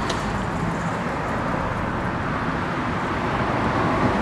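Steady outdoor background noise with no distinct events, of the kind left by nearby traffic or wind.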